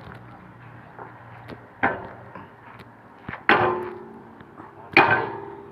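Three hammer blows on steel about a second and a half apart, each ringing on metallically, as a pin or bushing is driven into an excavator's bucket linkage.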